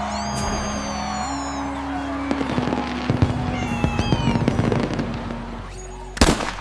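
Background music with held notes, over which high, falling cat meows sound twice, with a crackling run of clicks in the middle and a single sharp crack near the end.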